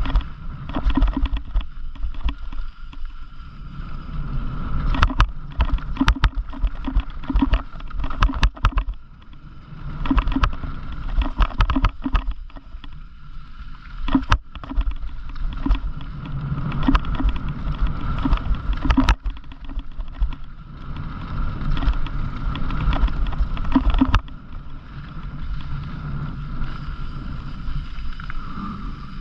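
Bicycle ridden over a rough, bumpy trail: a steady rumble of tyres on dirt and gravel, with frequent sharp rattles and knocks from the bike jolting over bumps, and wind buffeting the camera microphone.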